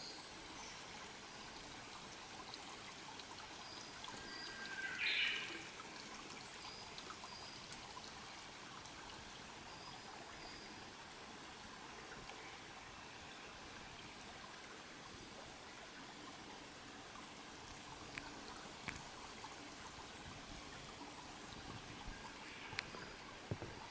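Small stream trickling steadily. A bird gives a short call about five seconds in, with faint thin high bird notes in the first half and a few light ticks near the end.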